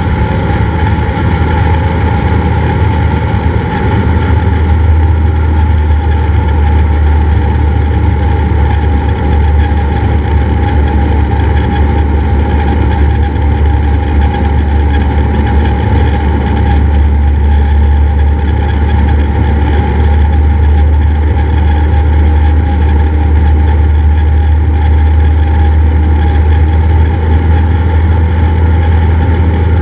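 Cessna 172's piston engine and propeller running steadily, a constant drone that comes up slightly about four seconds in.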